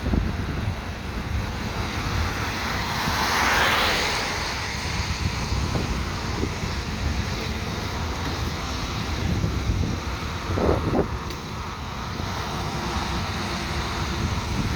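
Wind buffeting the microphone, with a vehicle passing on a wet road: its tyre hiss swells and fades about three to four seconds in.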